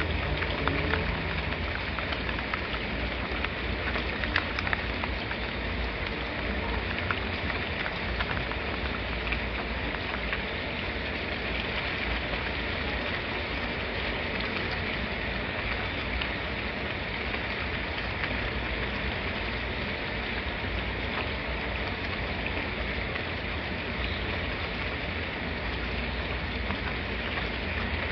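Steady heavy rain falling, an even hiss with individual drops ticking through it, over a constant low rumble.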